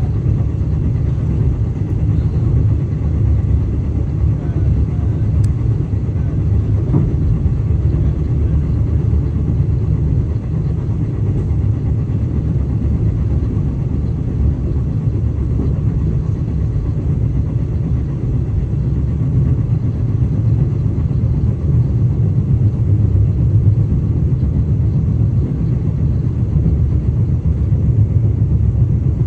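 KTM train's steady low rumble heard from inside the carriage as it rolls along the platform on arrival at the station.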